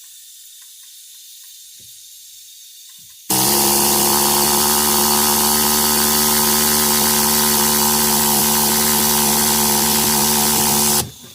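Pneumatic rivet gun triggered on a 1/4 inch rivet, running with a loud steady hiss and hum for about seven seconds and then cutting off sharply. The gun fails to pull the rivet.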